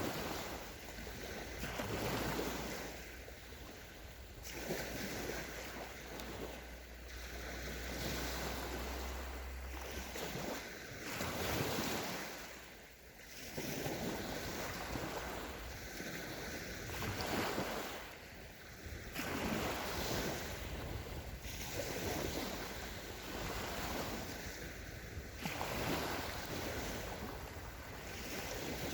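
Small sea waves breaking and washing up a sandy shore, a fresh wash swelling and fading every couple of seconds, with wind on the microphone. A low steady rumble runs under the surf for the first ten seconds and then stops.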